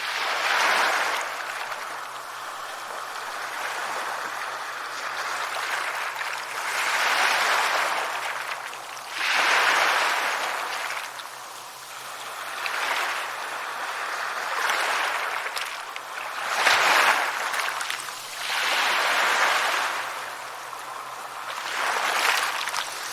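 Sea waves washing onto a shore, the surf swelling and falling back every few seconds.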